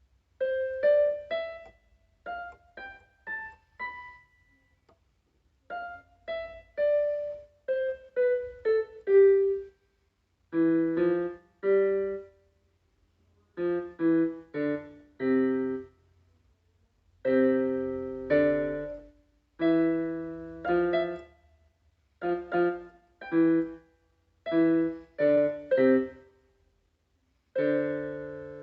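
Solo piano music: slow phrases of single notes, then fuller chords, each phrase separated by a short pause.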